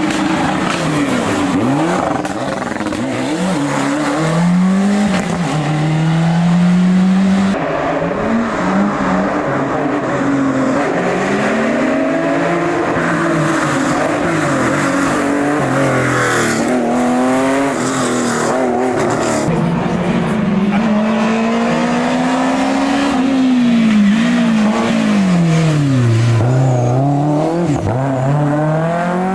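Historic rally car engine revving hard along a special stage, its pitch climbing through each gear and dropping at the shifts, with several deeper dips as it brakes and slows for corners and then pulls away again.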